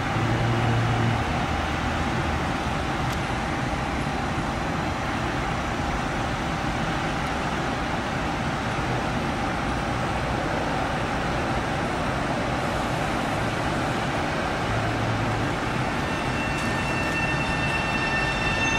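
Long Island Rail Road electric multiple-unit train running at the platform, a steady rumble and hum. Near the end its motors start a rising whine as it pulls away.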